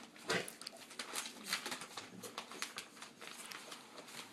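Four-week-old English cream golden retriever puppies moving about, a run of irregular light rustles and small clicks with one louder scuff about a third of a second in.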